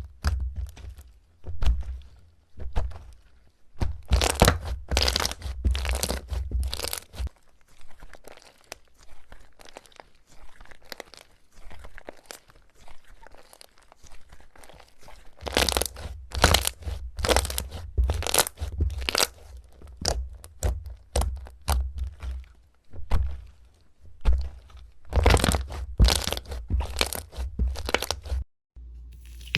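Crunchy slime being squeezed and pressed by hand, giving strings of sharp crackling pops that come in dense bunches with quieter stretches between.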